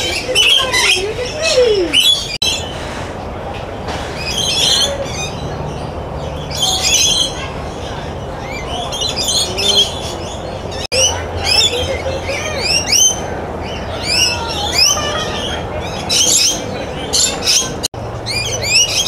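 A flock of birds chattering, with many short, rising chirps and squawks coming in overlapping clusters every second or two.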